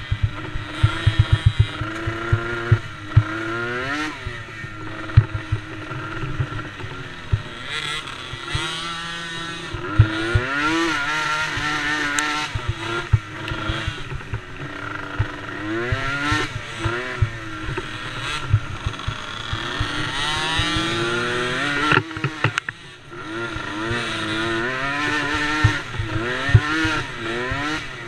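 Small youth ATV race engines, DRR DRX90 quads, revving up and down again and again as they accelerate and back off, with more than one machine heard at times. Frequent sharp low pops run through it.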